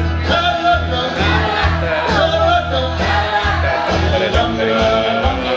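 Karaoke: a singer's amplified voice over a loud backing track with a pulsing bass beat.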